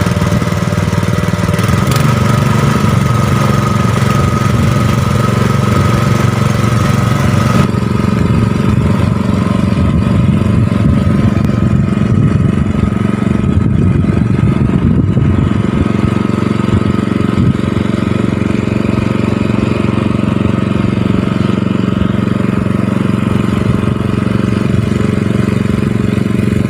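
Small engine of a rice-paddy water pump running steadily at a constant speed. About eight seconds in, the sound turns duller.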